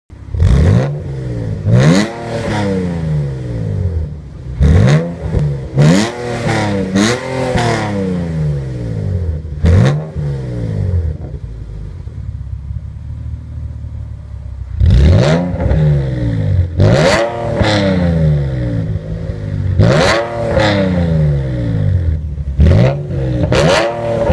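Nissan 370Z's 3.7-litre V6 through an aftermarket valved exhaust, revved in a series of quick sharp blips that each fall away slowly toward idle. A few seconds of steadier idle come about halfway through, then the blips start again.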